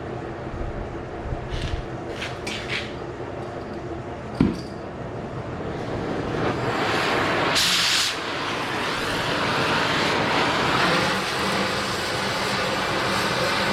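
Oxy-fuel cutting torch hissing while cutting hard-surfaced steel, growing louder from about halfway with a brief sharper blast of gas, and a sharp metal knock about four seconds in.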